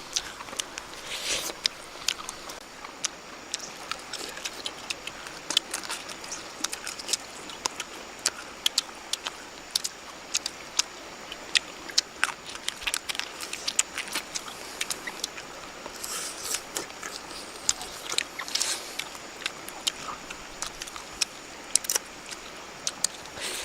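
Close eating sounds of a person chewing and biting cooked bird meat: irregular crunchy clicks and wet smacks.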